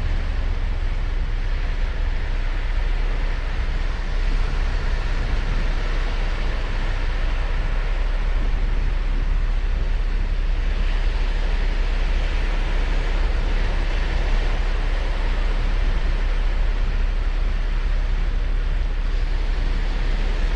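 Ocean surf breaking and washing up a sandy beach, a steady rushing noise that swells louder about halfway through, over a constant low rumble.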